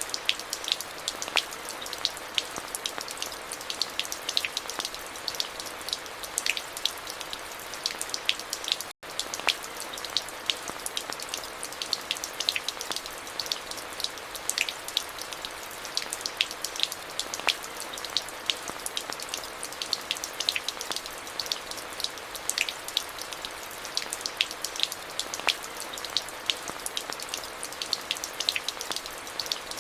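Steady rain: an even hiss packed with many sharp, close individual drop ticks. It cuts out for a split second about nine seconds in.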